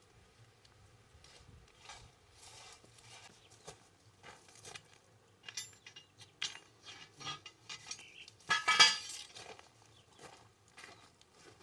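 Metal cooking utensils and pots clinking and knocking: a string of light, separate clinks, with one louder clatter about three-quarters of the way through.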